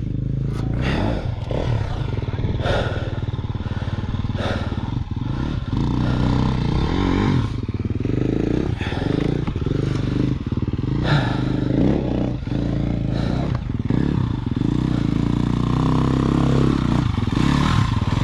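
KTM enduro dirt bike engine running with the throttle rising and falling as the bike climbs a rough trail. Repeated knocks and clatter from the bike can be heard over the engine.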